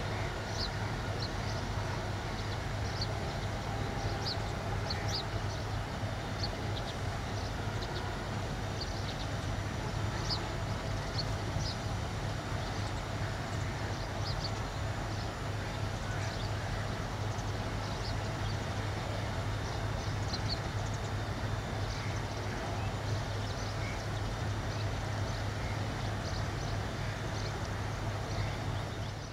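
Steady low rumble of a metre-gauge passenger train rolling away over the yard tracks, with short high chirps scattered through the first half.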